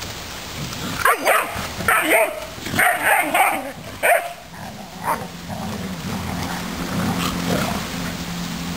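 Doberman barking: a quick run of barks over about three seconds, then one more a second later. A low steady hum comes in during the second half.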